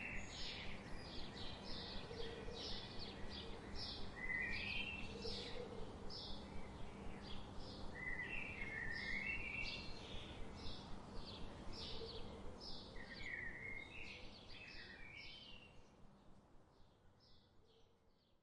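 Small birds chirping: short high chirps repeating about twice a second, with a few lower trilled phrases in between, over a steady background hiss. The sound fades out over the last few seconds.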